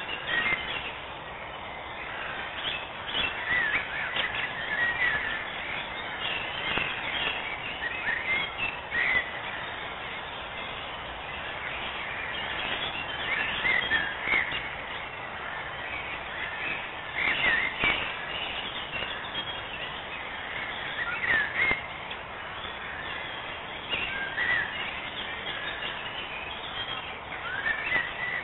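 Birdsong: short chirps and trills come every second or so over a steady hiss.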